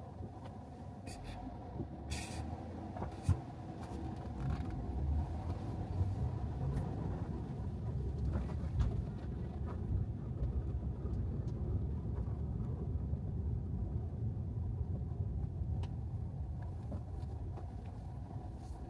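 Road and tyre rumble of a Tesla Model 3 electric car driving on wet pavement, with a few sharp knocks in the first few seconds as it goes over bumps. The rumble grows a few seconds in and eases near the end.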